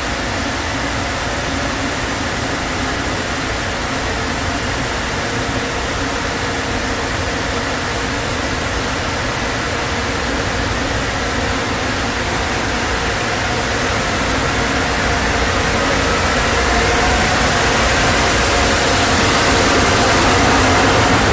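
A train approaching on the line: a steady running rumble and hiss that build and get louder over the last several seconds.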